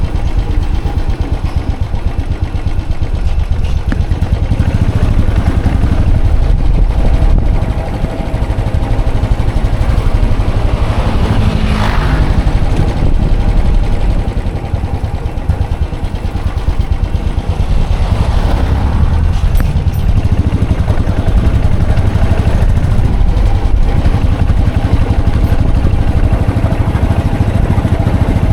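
Royal Enfield Classic 500 EFI single-cylinder engine running with a steady, pulsing low exhaust beat. There is a brief rising-and-falling swell of noise near the middle and a weaker one a little later.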